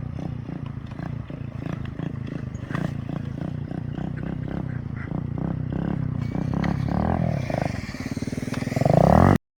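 Gas pit bike engine running with an uneven chugging pulse, revving up in a few swells and rising loudest near the end before cutting off suddenly.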